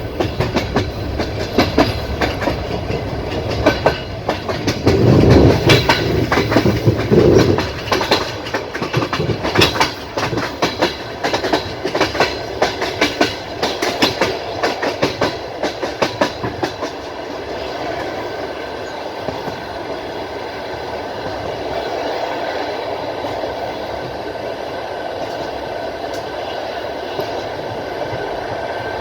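Passenger train's wheels clacking rapidly over rail joints, heard at a carriage window, with a louder low rumble about five seconds in. After about 17 seconds the clacking thins out into a steady rolling hum.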